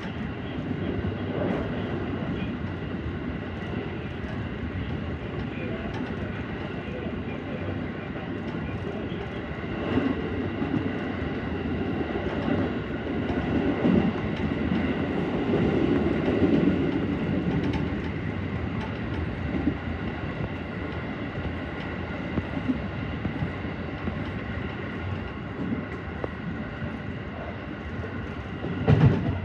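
313 series electric multiple unit running on the line: steady rolling and running noise with a faint high steady whine, and occasional clacks of wheels over rail joints, several close together near the end.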